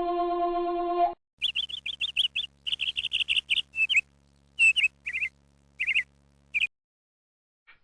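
A held woodwind-like musical note cuts off about a second in, followed by a run of quick, high bird chirps in clusters that stop shortly before the end.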